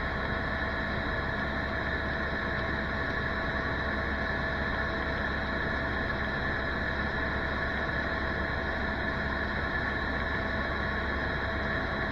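Tour helicopter in flight, heard from inside the cabin: a steady drone of engine and rotor with a few fixed, high whining tones over it.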